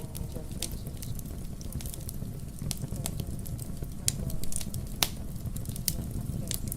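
Fireplace fire crackling: irregular sharp pops and snaps, one louder pop about five seconds in, over a steady low rumble.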